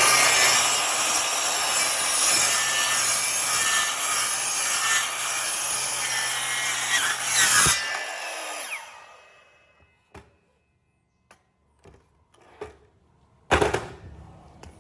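A power saw cuts into wood with a steady motor hum under it. About eight seconds in the cut ends and the sound fades out over a second as the tool winds down. A few short knocks follow, one of them louder near the end.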